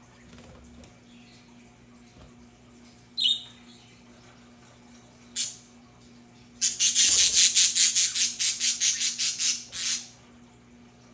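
Budgerigar calls: a sharp squawk about three seconds in and a short one two seconds later, then a rapid run of harsh chattering squawks, about six a second, for some three seconds.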